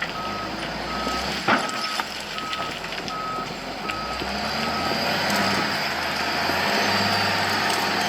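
Reversing alarm of a Volvo L120F wheel loader beeping at one steady pitch, about one and a half beeps a second, over its running diesel engine; the beeping stops about five and a half seconds in. A single sharp knock sounds about one and a half seconds in.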